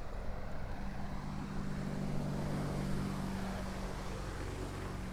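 Another boat's outboard motor passing close by at speed: a steady engine drone that swells to its loudest about halfway through and then eases off.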